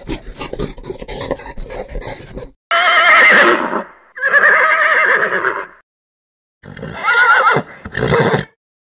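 Quick, even hoofbeats for about two seconds, then a horse whinnying twice in long calls with a shaky, wavering pitch, followed by two shorter neighs near the end.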